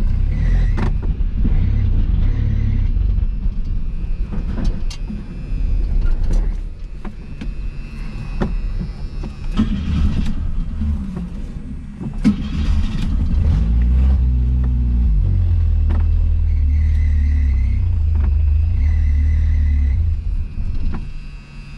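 A 1981 AMC Spirit's four-cylinder engine runs unevenly and is revved once, rising and falling about two-thirds of the way through, with a few sharp knocks along the way. The carburetor is short of fuel and may need an accelerator pump.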